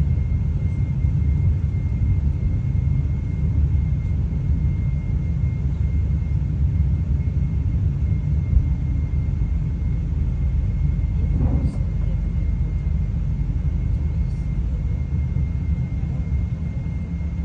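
Train running along the track, heard from inside the passenger carriage: a steady low rumble with a thin, steady high whine over it. A brief extra sound rises out of the rumble about eleven seconds in.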